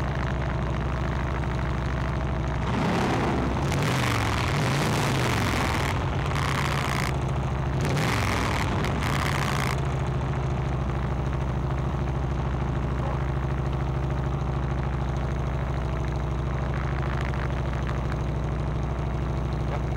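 Motorcycle engine running steadily. Between about three and ten seconds in, a louder rushing noise comes over it while the engine pitch rises and falls, then it settles back to a steady run.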